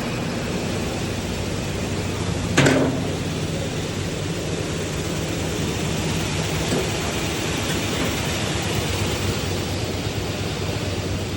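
Steady mechanical noise of machinery running, with a low hum and one sharp knock about two and a half seconds in.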